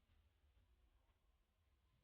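Near silence: faint low rumble and hiss.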